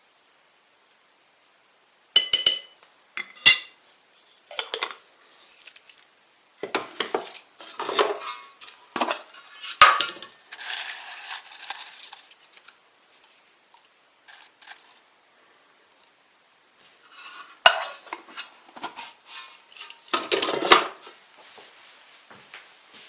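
Dishes, pots and cutlery being handled: metal and crockery clinking and clattering in irregular bursts, with two sharp ringing clinks about two and three and a half seconds in.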